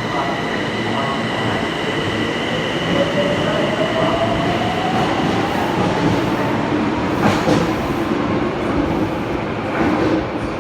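Yokohama Municipal Subway Blue Line train running, heard from inside the car: a motor whine rises steadily in pitch as the train gathers speed, over steady wheel and track rumble. Two sharp knocks come near the end.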